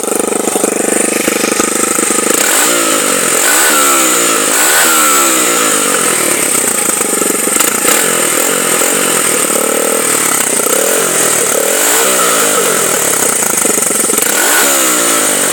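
Honda XR100R's single-cylinder carbureted engine running loud with its exhaust spark-arrestor baffle removed, sounding like a race bike. It idles at first, then is revved up and down repeatedly from a few seconds in.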